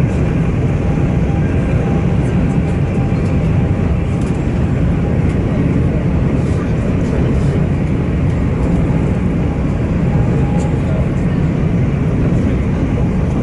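Train running noise: a steady, loud low rumble with a faint steady whine above it.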